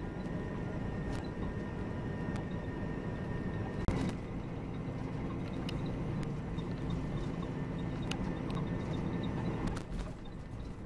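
Volvo B9R coach on the move, heard from inside: a steady engine and road rumble with scattered clicks and rattles, and a sharper knock about four seconds in.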